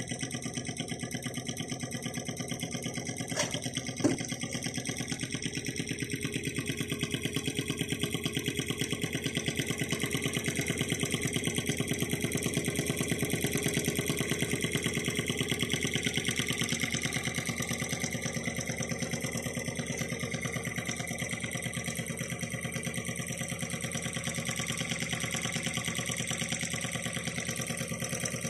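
Small model Stirling engine running steadily, its moving parts making a rapid, even mechanical clatter. Two sharp clicks come about three and a half and four seconds in.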